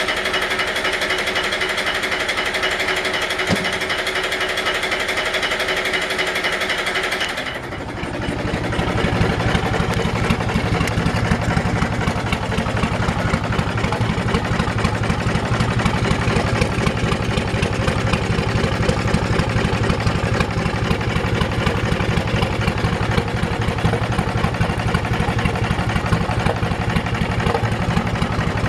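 A steady high-pitched mechanical buzz that stops abruptly about seven seconds in. It gives way to a boat's engine idling with a steady, low, rapidly pulsing rumble.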